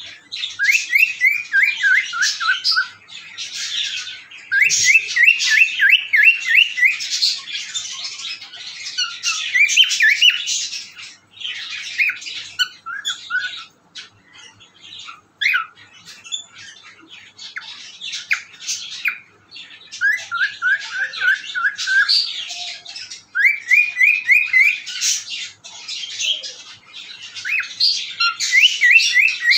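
Pet cockatiel vocalizing in bouts: quick runs of short, repeated chirping whistle notes, several a second, mixed with raspy, scratchy chatter.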